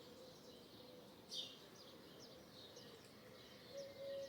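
Faint, scattered chirps of small birds, with one louder chirp about a second and a half in, over a faint steady low hum.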